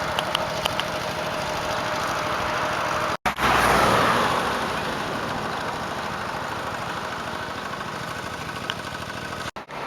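Motorbike ride with steady rushing wind and road noise and the engine running underneath. The sound drops out briefly twice, about three seconds in and near the end. Just after the first dropout the rushing surges louder, then eases off.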